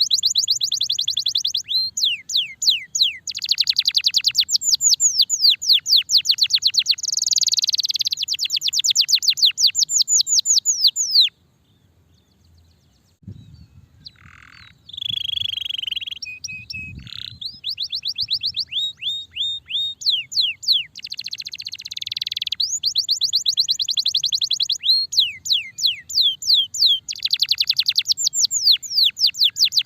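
Domestic canary singing in full, energetic song: long, fast trills of repeated high sweeping notes, several a second. The song breaks off briefly about eleven seconds in, with a couple of soft low thumps and a few different notes, before the trills resume.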